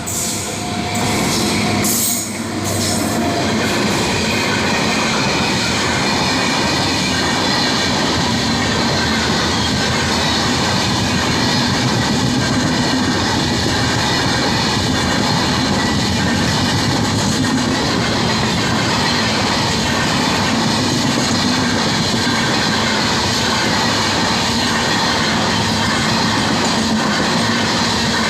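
The 12633 Kanyakumari Express, an Indian Railways passenger train, running on the rails: a loud, steady rumble of wheels and coaches that builds over the first two or three seconds and then holds.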